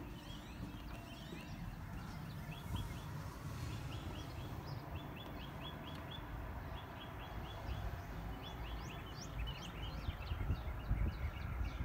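Birds chirping in quick runs of short high notes, about five a second, mixed with higher rising whistled notes, over a low steady rumble.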